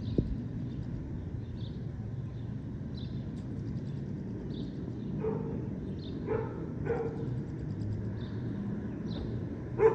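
A dog barking in the distance, four short barks in the second half with the last the loudest, over a steady low city rumble. A faint high chirp repeats about every second and a half.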